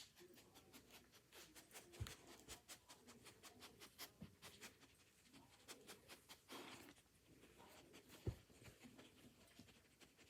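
Near silence with faint, irregular clicks and rustles and two soft thumps, one about two seconds in and one near eight seconds.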